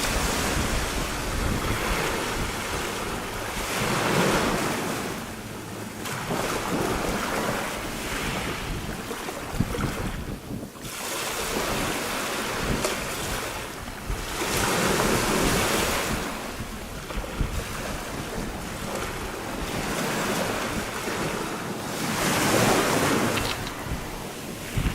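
Small sea waves washing in over fine pebbles at the water's edge, swelling and falling back in surges several seconds apart. Wind buffets the microphone.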